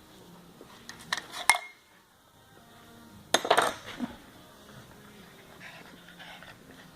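A few sharp metallic clinks and clanks: a short group about a second in, one leaving a brief ring, then a louder cluster about three and a half seconds in.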